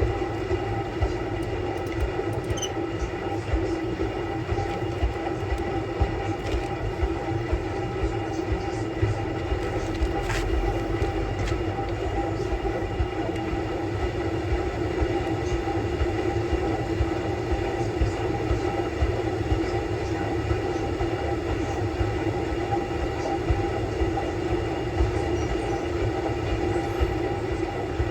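Samsung Bespoke Grande front-loading washing machine running its quick cycle with a small load: a steady motor hum and whine over a rumble from the drum, with faint clicks.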